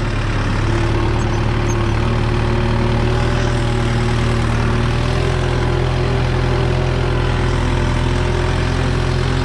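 Kubota M6040 tractor's diesel engine running steadily, its pitch holding nearly even throughout.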